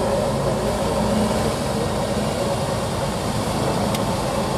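Competition truck's diesel engine running steadily.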